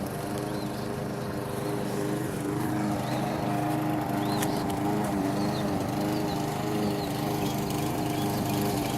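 A small engine runs steadily throughout, getting slightly louder about two and a half seconds in, with several short high bird chirps over it.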